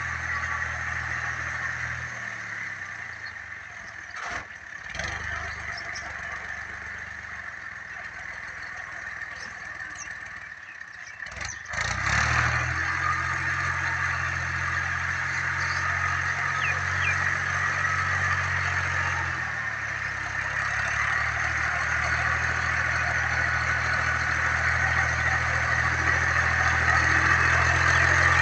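Fiat 480 tractor's diesel engine running, quieter for a stretch, then picking up sharply about twelve seconds in and growing steadily louder.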